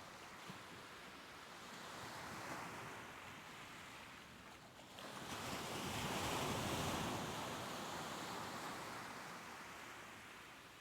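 Soft ocean waves washing in. A larger wave swells up about halfway through and slowly ebbs away.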